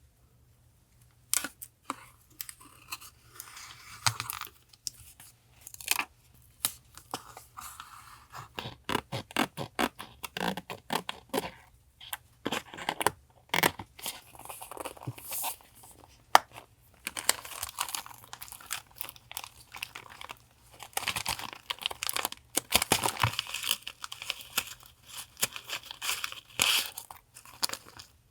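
Paper being handled in journal collage work: crinkling, rustling and tearing of paper and die-cut pieces, with many short sharp taps and clicks. The rustling grows denser and more continuous about halfway through.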